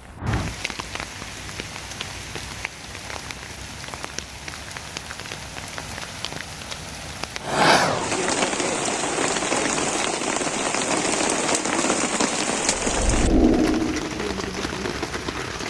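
Steady rain with individual drops ticking. About eight seconds in, a louder, brighter hiss of heavier rain comes in suddenly and cuts off sharply about five seconds later.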